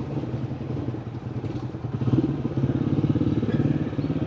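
Motorcycle engine running at low speed with a fast, even putter as the bike is ridden slowly. The engine gets a little louder about two seconds in.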